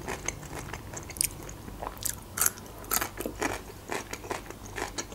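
Close-miked biting and chewing of a pickled gherkin: a string of crisp crunches, irregular, roughly two a second.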